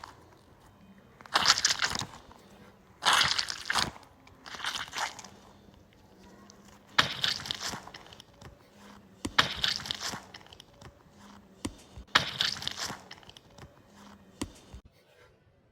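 Crunchy balls crunching in several separate bursts, each lasting under a second, with short quiet gaps between.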